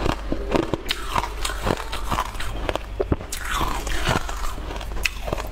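Close-miked chewing and mouth sounds: a steady run of wet clicks and smacks as someone eats, over a low steady hum.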